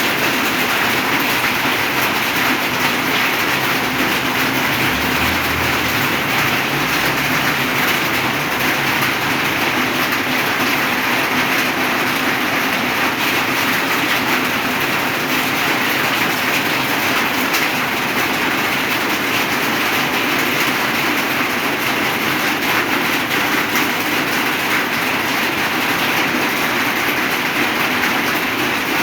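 Heavy rain pouring down in a steady, dense hiss, with many small drop ticks throughout.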